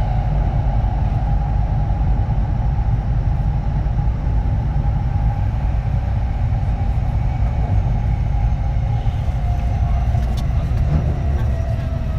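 Kintetsu 3220 series electric train running, heard from inside the car: a steady, heavy wheel-and-track rumble with the whine of its Hitachi IGBT inverter-driven traction motors, the whine sliding slowly lower near the end.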